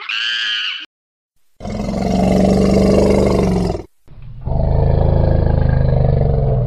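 A macaque's high-pitched scream cuts off within the first second; after a short gap an Asian elephant gives two long, low calls of about two seconds each, the second slightly lower in pitch.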